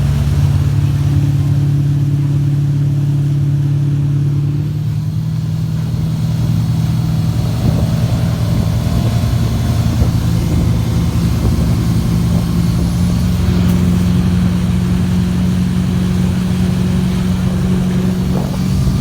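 Motorboat engine running steadily under way, its note shifting slightly about four seconds in.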